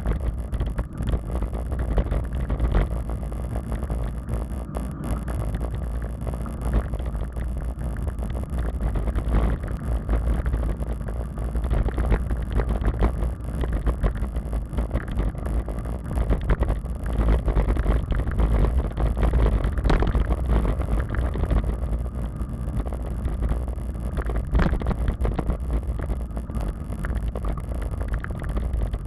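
Wind buffeting the microphone of a camera carried on a moving bicycle: a steady low rumble of wind noise.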